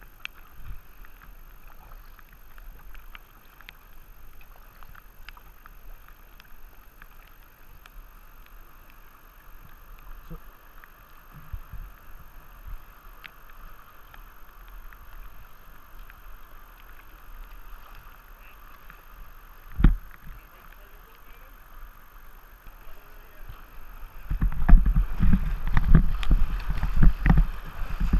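Steady rush of river water on moving whitewater, with scattered small knocks and splashes of a kayak and paddle and one sharp thump about two-thirds through. In the last few seconds, loud low rumbling bursts take over.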